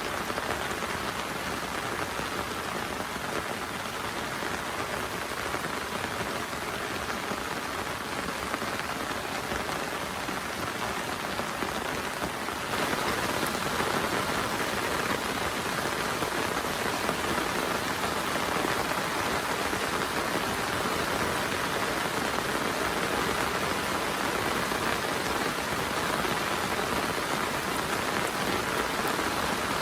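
Heavy rain falling steadily, a dense even patter. About thirteen seconds in it steps up suddenly to a louder, brighter hiss and stays there.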